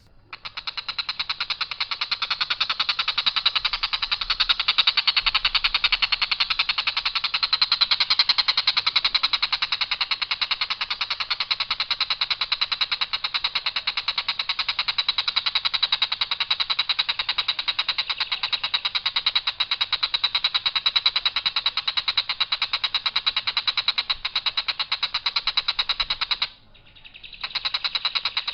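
Tengkek buto kingfisher giving its long, harsh, rattling call: a rapid, even string of rough notes held on one pitch without variation. The call breaks off briefly near the end, then starts again.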